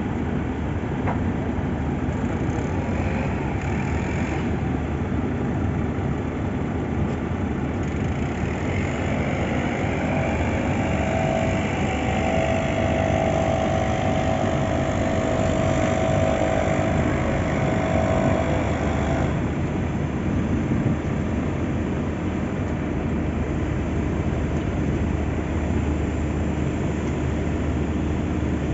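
Heavy diesel road-paving machinery running steadily at asphalt-laying work, a constant low engine drone. A higher steady whine joins in about a third of the way through and cuts off suddenly about two-thirds through.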